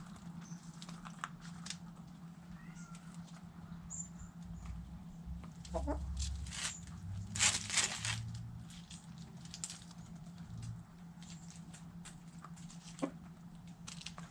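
Backyard chickens feeding on scraps: scattered sharp pecking clicks, a short cluck about six seconds in, and a brief loud rustling flurry around seven to eight seconds in. A low steady hum runs underneath.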